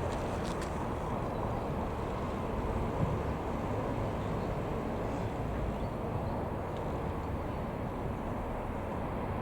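Steady low rumbling noise with no clear engine tone and no distinct events.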